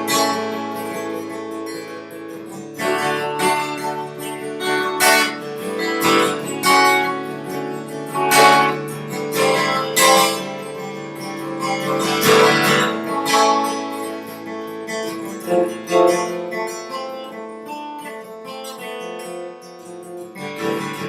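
Acoustic guitar music, plucked and strummed, fading out near the end.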